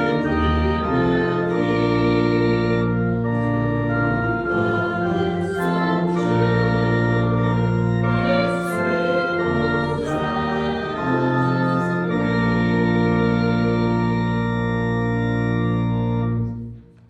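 Organ playing a hymn in slow sustained chords with voices singing along. The final chord stops about half a second before the end.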